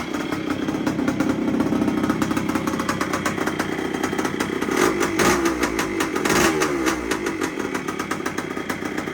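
1973 Yamaha CT3's single-cylinder two-stroke engine, freshly rebuilt and on its first run, idling steadily. It gets two short throttle blips, the pitch rising and falling back, about five and six and a half seconds in.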